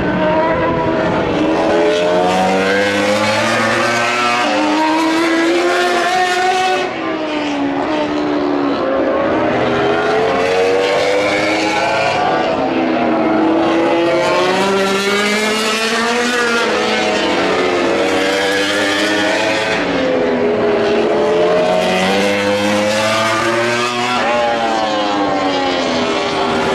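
MotoGP racing motorcycles running on track, several engines heard together. Their notes climb and drop over and over as the bikes accelerate through the gears and shift down.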